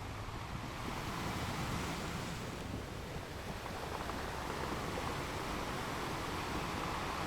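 Ocean surf breaking against rocks, a steady rushing wash of water that swells slightly about a second in and again near the end.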